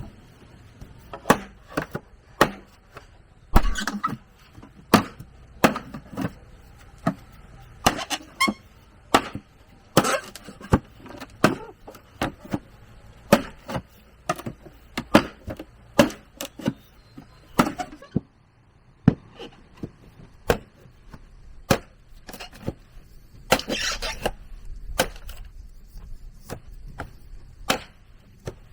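Repeated chopping blows of a blade striking bamboo, sharp single strikes coming about one to two a second, with a short pause about two-thirds of the way through and then a longer scraping rustle.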